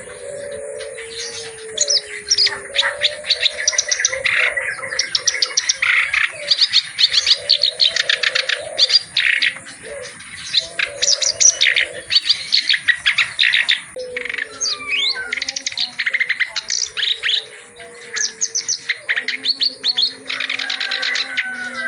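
Reed warbler (kerak basi) singing a loud, fast, chattering song of rapidly repeated notes in bursts, with short pauses between phrases.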